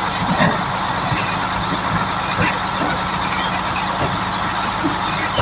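Heavy truck's diesel engine running steadily at low revs, with traffic noise around it.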